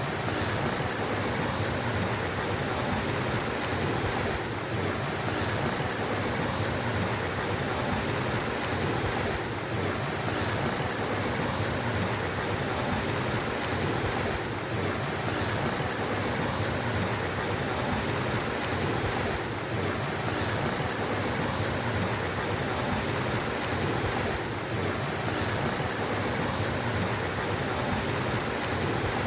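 Steady rushing of flowing water in a stream, with a slight brief dip in level about every five seconds.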